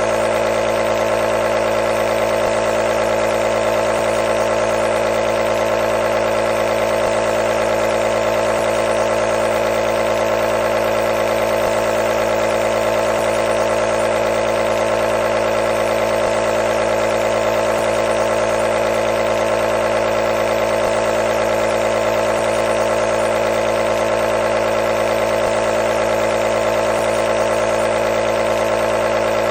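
Nebulizer compressor running continuously, a steady motor hum with an even hiss over it.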